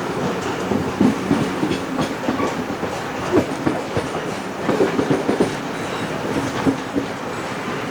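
Railway carriage rolling along the track: a steady rumble with the wheels clicking and knocking irregularly over the rail joints, in a cluster about five seconds in.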